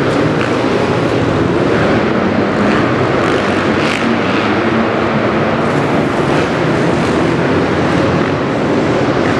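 Motocross bike engine running steadily under way, with a dense, loud noise.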